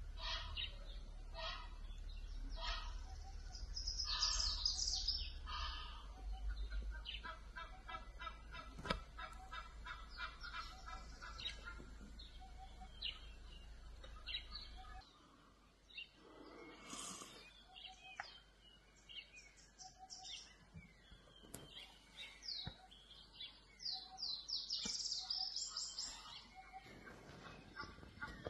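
Birds chirping and calling in short repeated phrases, with a fast run of chirps in the middle. A low steady hum underneath cuts off about halfway through.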